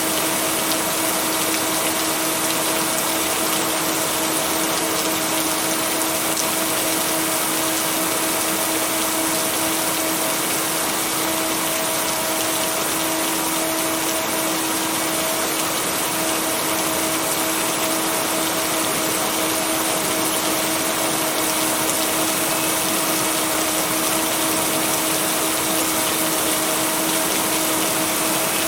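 Steady, even rain noise with no thunder claps, layered over a constant low hum of two held tones, the binaural-beat bed mixed into the recording.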